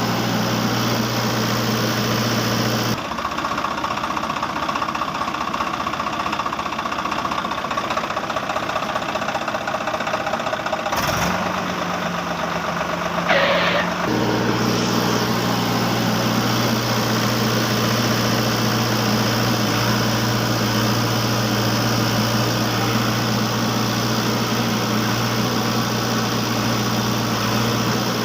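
A vehicle engine or motor running with a steady hum. The sound changes abruptly three times: about 3 seconds in, about 11 seconds in, and about 14 seconds in, with a brief higher tone just before the last change.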